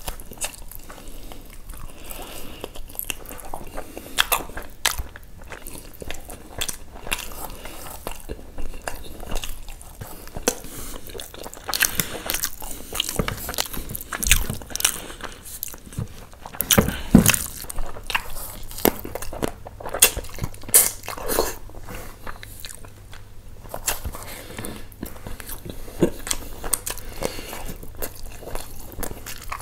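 A person chewing and biting food close to the microphone: irregular wet smacks and crunches, a few louder bites in the middle.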